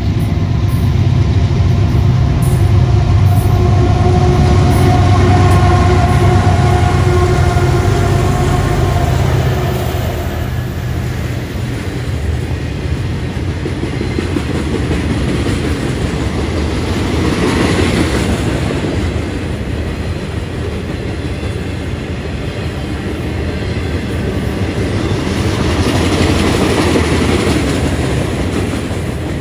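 Freight train passing close by: for about the first third the locomotives' diesel rumble and whining tones sink slightly in pitch as they go by, then the rolling cars keep up a steady rumble and wheel clatter that swells twice.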